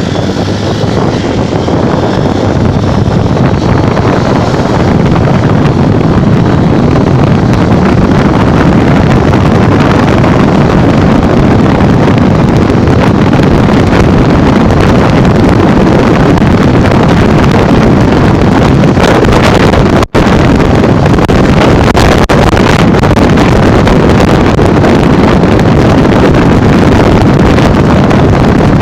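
Heavy wind buffeting on the microphone over a Honda Bros 150 motorcycle running at speed on the highway, building over the first few seconds and then holding steady. The sound cuts out for an instant about 20 seconds in.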